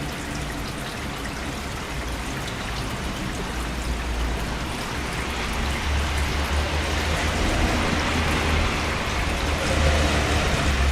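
Steady rain with a low rumble underneath, growing louder from about halfway through.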